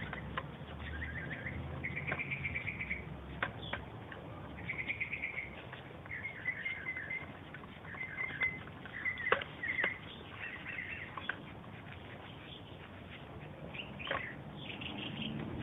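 Small birds chirping in short, quick trills, a burst every second or so, with scattered light clicks and taps.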